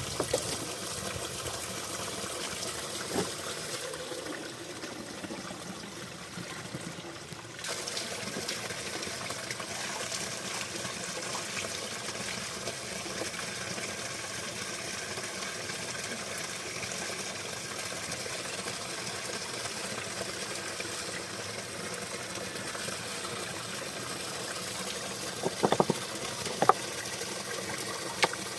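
Steady rush of running spring water, with a few short knocks or splashes near the end.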